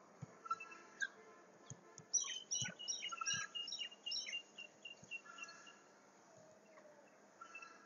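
A bird chirping a quick run of short, repeated high notes for a couple of seconds, with softer chirps around it and a few faint clicks.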